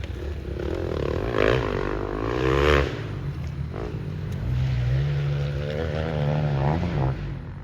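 Dirt bike engine revving up and down as the bike rides, with the loudest bursts of throttle about one and a half and nearly three seconds in.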